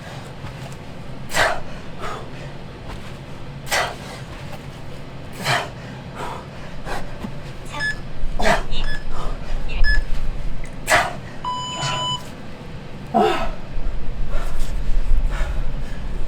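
A man breathing hard in sharp exhales, one every second or two, while doing timed sit-ups, with a few short electronic beeps around the middle. A low rumble builds from about halfway and is the loudest thing near the end.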